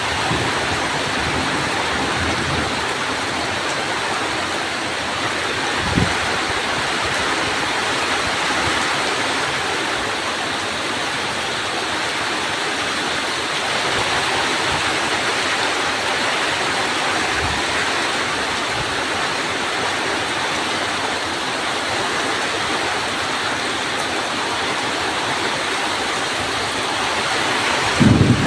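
Steady heavy rain pouring down, with a short low thump about six seconds in and a low thunder rumble starting near the end.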